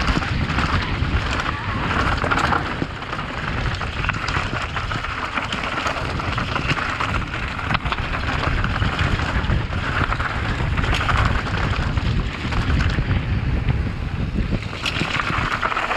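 Mountain bike descending a rocky downhill trail: steady wind buffeting on the microphone over the rumble and rattle of tyres and frame on rock and dirt, with frequent sharp knocks from impacts.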